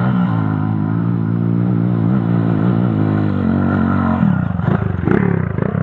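Off-road trail motorcycle engine running under way, its pitch rising and falling with the throttle, the note dropping and going rougher about four seconds in.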